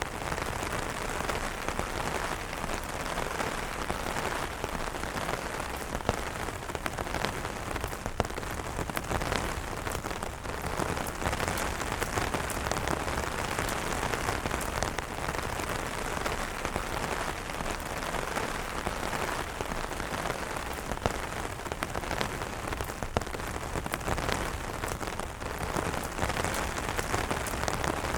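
Steady rain falling on umbrellas: a dense, even hiss of rainfall with many small, sharp drop taps scattered through it.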